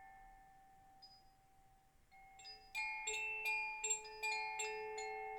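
Soft struck chime notes ringing out in a gentle, unhurried pattern. A fading ring dies down, then after about two seconds a cluster of several light strikes comes in quick succession and rings on.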